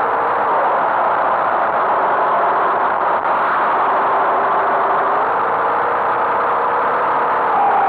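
Tractor engine running steadily, a constant drone whose pitch drifts only slightly.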